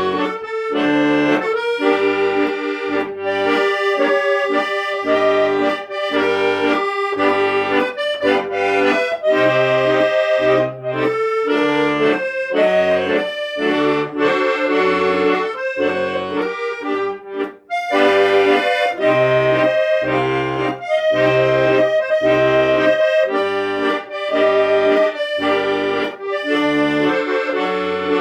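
Accordion music: a melody over a repeating bass-note and chord accompaniment, with a brief break about two-thirds of the way through.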